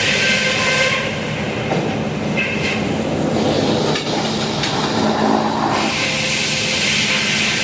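Sawmill running through a log: a steady low machine hum under a high rasping hiss of the blade in the wood, which swells and fades, strongest in the first second and again from about six seconds in.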